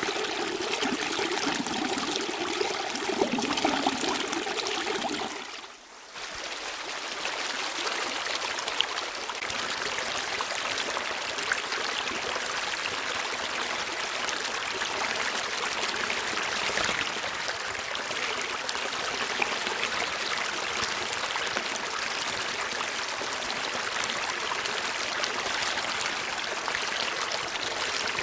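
Running water flowing steadily, fuller and gurgling at first. About six seconds in it fades briefly and comes back as a finer, hissier rush with small drips in it.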